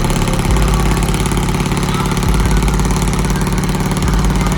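Pickup truck engine idling steadily, a loud low running sound with a fine regular pulse.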